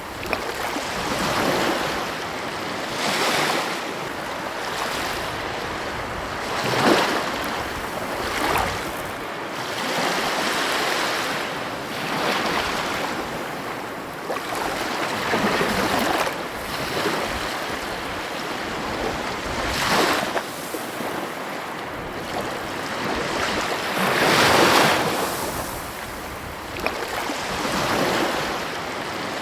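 Ocean surf breaking on a beach: a steady wash of water that swells with each incoming wave every few seconds.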